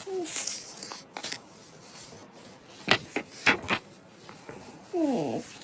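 A rustle, then a few sharp clicks and knocks, like small objects being handled. Near the end comes a short sound with a voice-like pitch that slides steeply downward.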